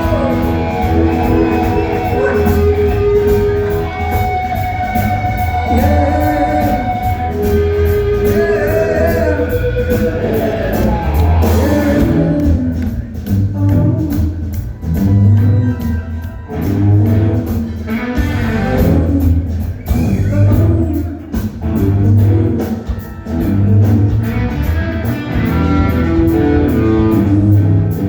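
Rock band playing, with a singer's held, sustained notes over electric guitar and a steady bass pulse; the playing turns more rhythmic about halfway through.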